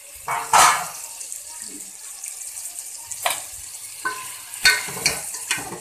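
Chicken and masala sizzling in a steel cooking pot, with about five sharp metal clinks against the pot, the loudest about half a second in.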